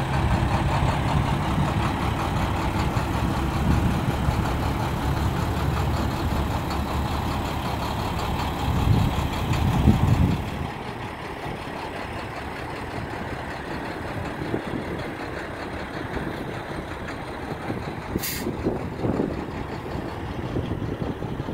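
Diesel engine of a 2013 International 4300 box truck running, loud and steady at first and swelling briefly before the level drops about halfway through, after which it runs on more quietly. A short hiss of air sounds near the end.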